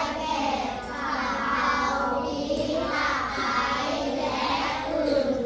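A class of children speaking together in unison, in drawn-out, sing-song voices like a group recitation.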